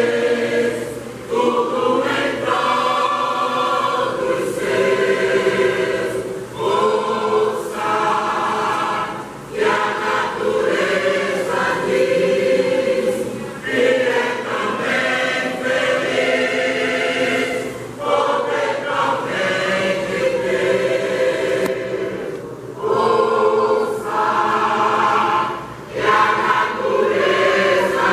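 Church choir singing a hymn in sustained phrases, with brief breaks between phrases every few seconds.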